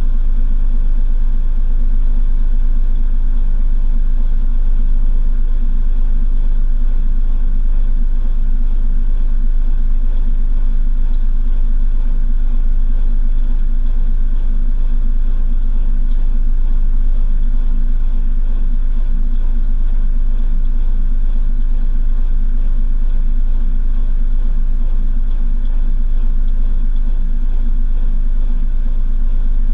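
Washing machine drum spinning at a steady speed, heard from inside the drum: a loud, steady low rumble with a constant motor hum.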